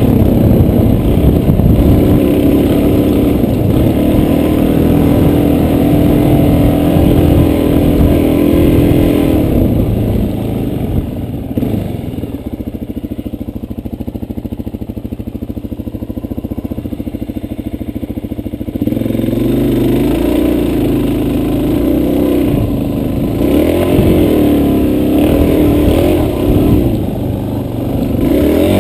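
Dual-sport motorcycle engine running under way on a trail ride, its revs rising and falling. About a third of the way in it drops to a quieter, steadier low note for several seconds, then picks up again.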